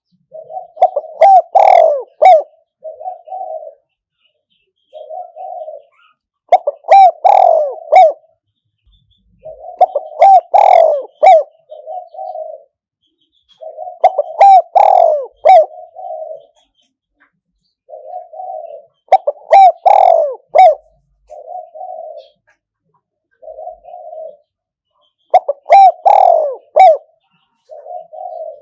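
Spotted dove (a caged decoy) cooing loudly. The same rolling multi-note coo phrase comes about every five seconds, six times.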